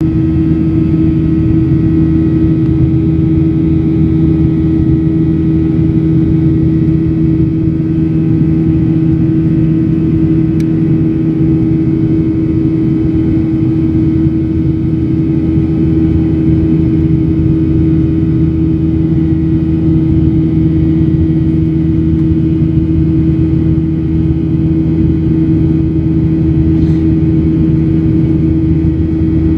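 Cabin noise of a Boeing 737-800 with its CFM56-7B turbofan engines running at steady thrust: a loud, even roar with a steady droning hum through it.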